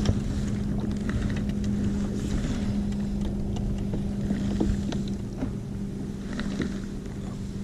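Wind and water noise from a kayak on rough sea, under a steady low hum, with a few faint clicks and knocks.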